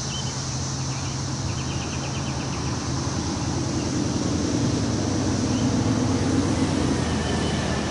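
Wind rushing through the forest trees, with small birds chirping and one quick trill near the start. Under it runs a low engine hum, like distant traffic, that grows louder from about three seconds in.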